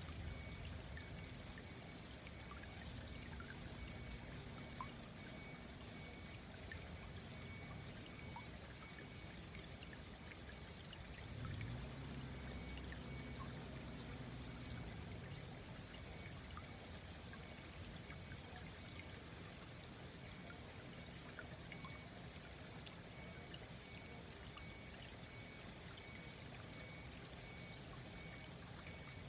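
A small, gently flowing stream babbling and trickling steadily. A low hum swells under it twice, near the start and again about halfway through.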